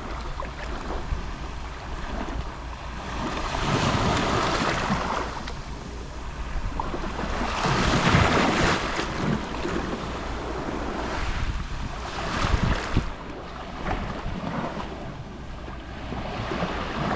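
Gentle Mediterranean sea waves lapping on the shore, each wave washing in as a swell of rushing noise and falling away, the biggest at about four and eight seconds in. Under them runs a low rumble of wind on the microphone.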